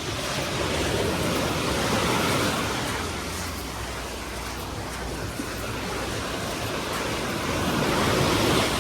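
Small sea waves washing onto the beach, swelling twice: once about two seconds in and more loudly near the end.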